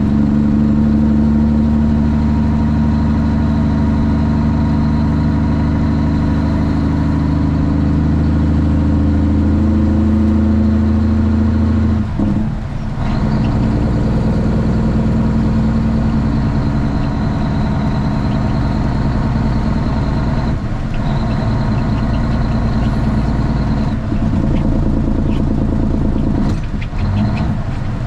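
Straight-piped Cummins ISX inline-six diesel in a Kenworth T800 running steadily, with a thin high whine over the engine note. It dips briefly three times, about twelve, twenty-one and twenty-seven seconds in, and its pitch pattern changes after each dip.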